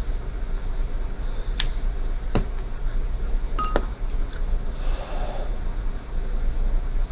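Low, steady rumble of a passing train, with a few light clicks and clinks between about one and a half and four seconds in.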